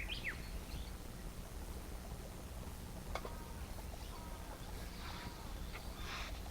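Outdoor ambience with a steady low rumble and a few short bird chirps, the first right at the start and more around five to six seconds in. There is one short sharp click a little after three seconds.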